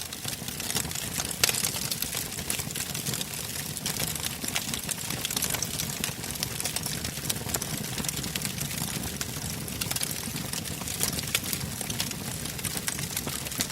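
Wood fire burning in a fireplace: continuous crackling and popping of burning logs over the low rush of the flames, with a sharper pop about a second and a half in.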